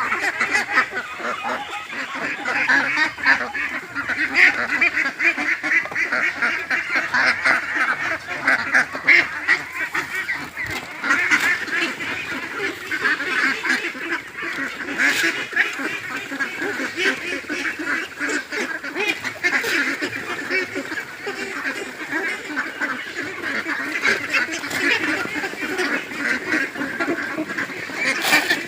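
A flock of domestic ducks quacking, many calling at once in a continuous, overlapping chorus.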